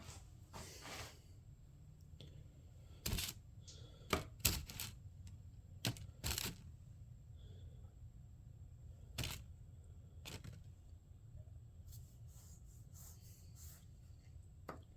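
Scattered sharp clicks and light knocks of small plastic push-rivet clips and spacers being handled and pressed into place, about a dozen irregular taps with quiet gaps between them.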